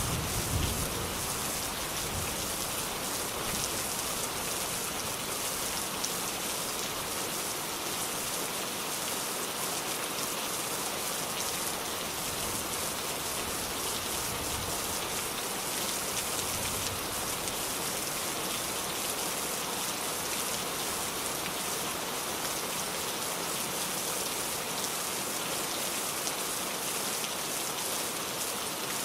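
Steady rain falling on a surface, an even hiss of many fine drops. A low rumble at the start fades within the first second.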